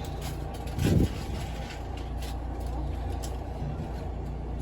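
Steady low engine hum of an idling vehicle, with one brief low thump about a second in.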